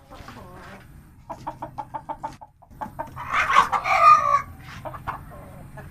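Aseel hen cackling: a quick run of short clucks, then a louder drawn-out squawk about three seconds in.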